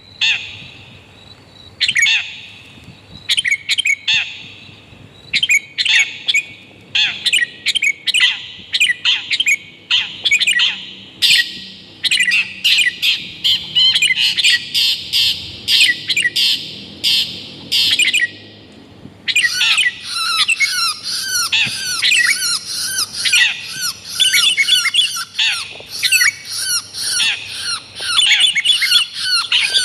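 Bird-lure recording of long-tailed shrike (cendet) calls mixed with sooty-headed bulbul (kutilang) calls: harsh, sharp calls repeated at a quick pace. About two-thirds of the way through they give way to a denser, faster chattering.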